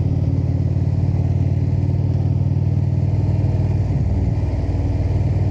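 Indian V-twin cruiser motorcycle engine running steadily at riding speed. About four seconds in, the engine note briefly dips and shifts, then settles again.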